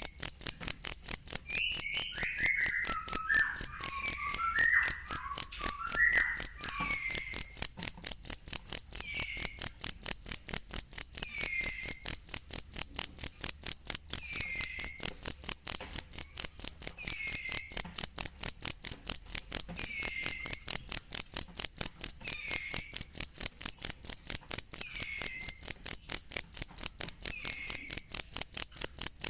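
Cricket chirping steadily: a continuous train of rapid, even, high-pitched pulses. Under it, a fainter falling call repeats about every two and a half seconds, more tangled in the first few seconds.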